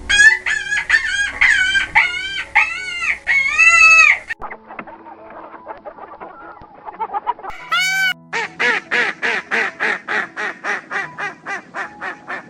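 Chickens clucking and cackling: a run of loud calls at first, quieter scattered clucks after it, then a fast, even run of short clucks in the last few seconds.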